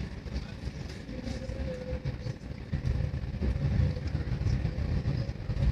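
Passenger train running along the track, heard from inside the carriage: a steady low rumble of wheels on rail that grows louder about three seconds in, with a faint steady hum above it.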